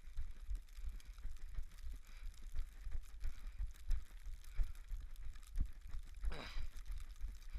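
Repeated low thuds of running footfalls jolting a body-worn action camera, with small clicks and faint wind noise. A little over six seconds in, a short voice sound falls in pitch.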